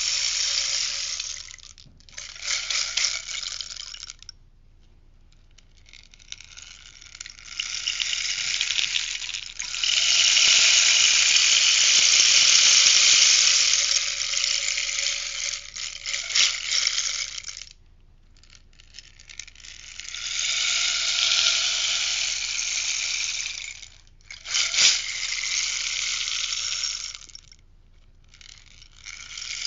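Rainstick tipped again and again, its fill pouring down inside with a hissing rattle like falling rain. The pours last from a couple of seconds to about ten seconds, with short silent pauses as the stick is turned over.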